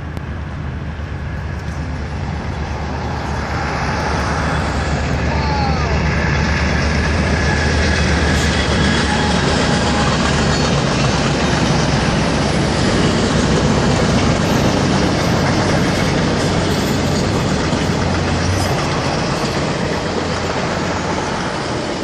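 The Canadian Pacific Holiday Train passing, its railcars rolling by on the rails with a continuous rumble and a steady low hum. The sound builds over the first five or six seconds, holds, and eases off near the end as the last cars go by.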